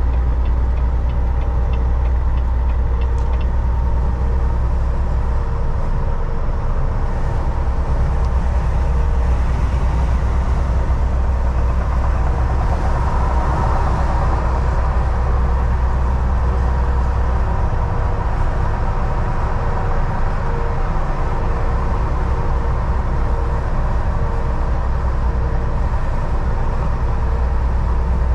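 Semi truck's diesel engine and road noise: a steady, heavy, low drone while cruising at highway speed, heard from the driver's seat. A light, rapid, regular ticking runs over the first few seconds.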